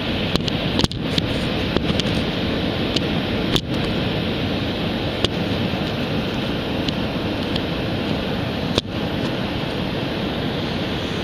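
Ocean surf on a beach: a steady rush of waves breaking and washing in, with a few brief sharp clicks scattered through it.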